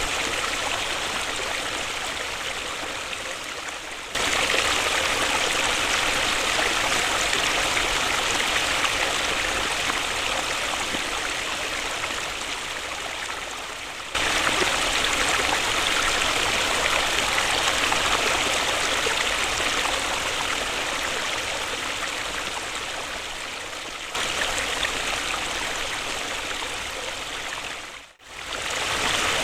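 Waterfall rushing steadily, a dense hiss of falling water. The sound eases a little, then jumps back to full loudness at about ten-second intervals, and drops out almost completely for a moment shortly before the end.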